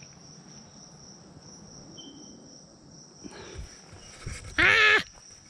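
Insects trilling in the woods: one steady, high-pitched tone that does not change. About four and a half seconds in comes a brief loud call.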